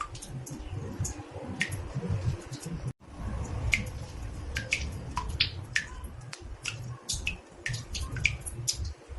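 Water drops falling into a bathtub: many quick, irregular plinks, several falling in pitch, over a low rumble, with the sound cutting out for an instant about three seconds in.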